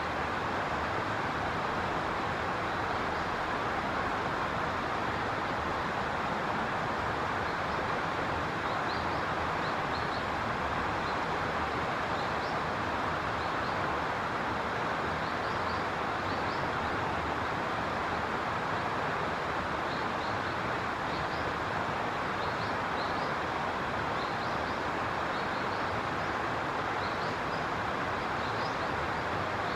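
Steady rushing background noise with no change in level, with faint, short, high bird chirps scattered through it from about eight seconds in.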